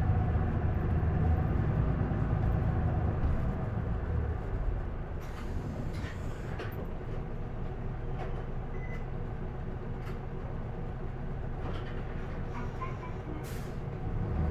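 Isuzu Erga city bus's diesel engine heard from inside the cabin, pulling under load for the first four seconds or so, then falling to a quieter, steady run. A few short clicks and rattles sound in the middle and near the end.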